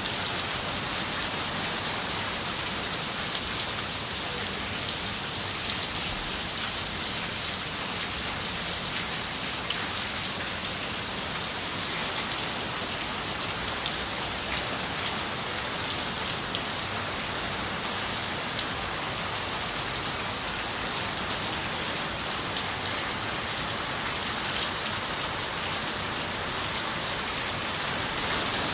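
Steady rain falling on a window, an even hiss with scattered light drop ticks.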